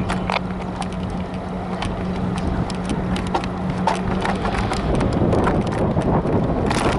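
Freight train cars moving slowly during switching: a low rumble with irregular clicks and knocks from wheels and couplers, and a steady hum that stops about two-thirds of the way through.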